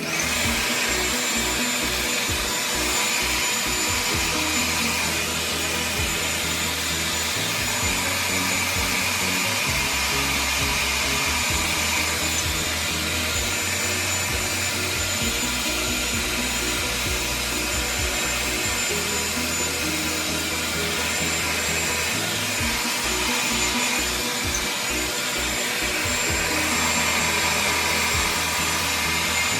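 A hand-held hair dryer running steadily on one setting, a loud even rush of air with a thin high whine, over background music.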